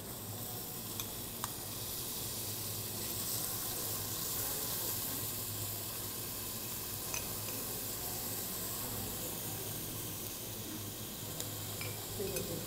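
Chopped garlic frying in olive oil in a stainless steel pot, a steady sizzle, with a few light clicks of a spoon against the pot as it is stirred.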